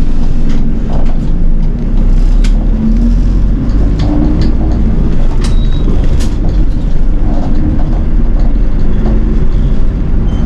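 City bus running, heard from inside the cabin: a steady low engine and road rumble with a few sharp rattles and clicks.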